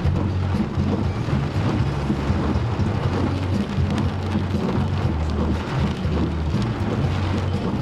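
Heavy rain pouring down in a rainstorm, a steady hiss of rain with a deep, uneven rumble underneath.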